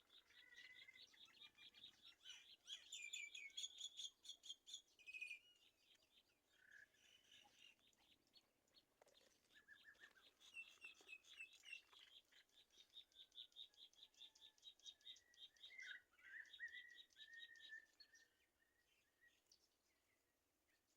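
Nestling birds chirping in rapid trains of high, even chirps, about eight a second, in two long bouts with some lower slurred calls mixed in; it fades near the end. The calls are typical of young in the nest begging for food.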